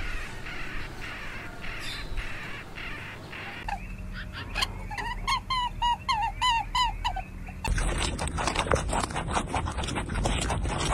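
A run of short, high, squeaky chirps, several a second, then a dense, rapid crackle of baby rabbits crunching dry food pellets.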